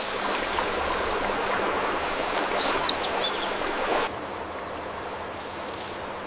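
Steady rushing outdoor ambience with a few short, high chirps. About four seconds in it drops abruptly to a quieter, even hiss.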